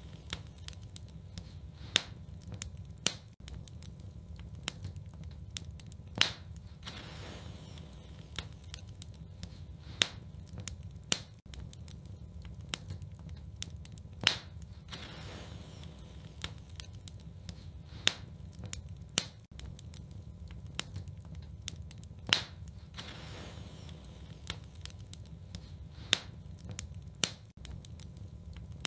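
Wood fire burning in a fireplace: a steady low rumble of flame with sharp crackles and pops every few seconds.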